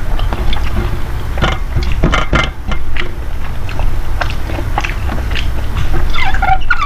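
A person chewing and eating food close to the microphone, with short clicking mouth sounds over a steady low hum. Near the end comes a brief sound that falls in pitch.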